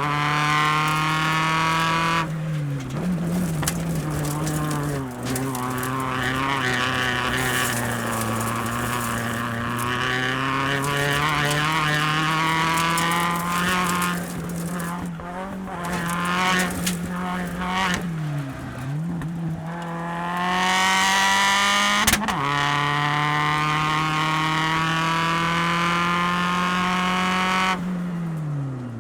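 Mini Countryman ALL4 rallycross supercar engine and exhaust under hard racing use, heard onboard. The engine note climbs through the revs and drops repeatedly at gear changes and lifts, with a sharp crack about three-quarters of the way through.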